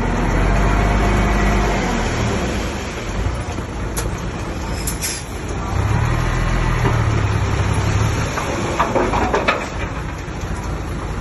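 Diesel engine of heavy earthmoving machinery working, its low hum swelling twice under load, with scattered metallic clanks and rattles about a third of the way in and again near the end.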